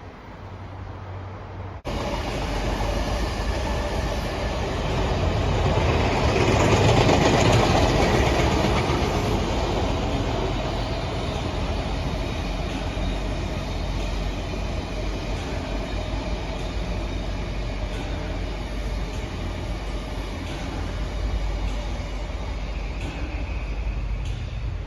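An Odakyu limited express electric train running by on the line. The sound starts abruptly about two seconds in, is loudest a few seconds later, and then carries on steadily.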